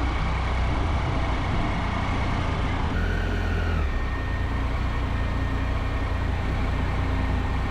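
Triumph Tiger 800's three-cylinder engine idling steadily at a standstill.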